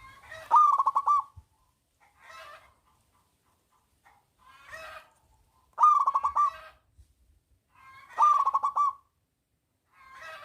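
Zebra dove (perkutut) cooing its song: three loud phrases of quick, evenly spaced coos, each about a second long, with softer short notes between them.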